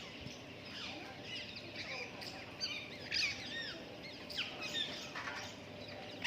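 A flock of wild parrots calling: many short, arched chirps and squawks that overlap and come irregularly, with a louder burst of calls about three seconds in.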